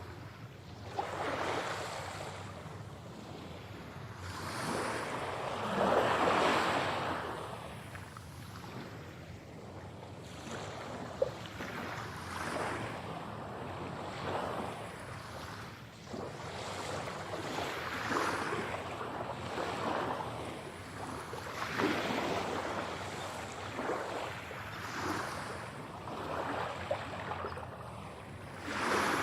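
Ocean waves breaking and washing up a shore, coming in repeated surges of rushing water every few seconds, the biggest about six seconds in.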